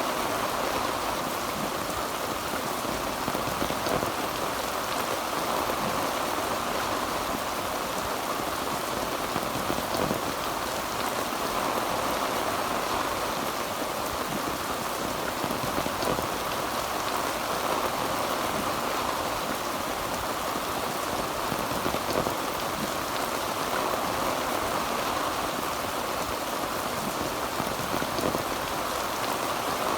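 Heavy rain falling steadily on a tin roof: a dense, even patter with occasional slightly louder drop hits.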